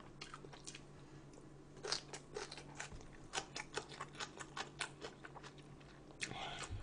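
A person chewing and biting food, close to the microphone: a run of short, crunchy clicks, densest in the middle.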